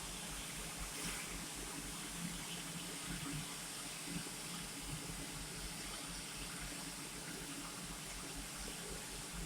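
TIG welding arc hissing steadily, with a low, rapidly pulsing hum underneath.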